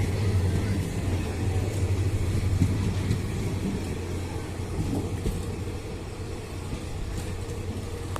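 A train's steady low rumble and hum, easing off slightly.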